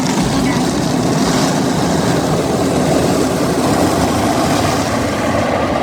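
Automatic car wash's rotating brush rollers scrubbing over the car, heard from inside the cabin: a loud, steady, noisy wash of sound.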